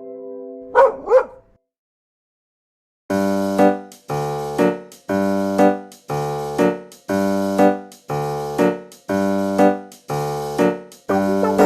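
Two short dog barks about a second in, then background keyboard music with chords struck in a steady rhythm about twice a second.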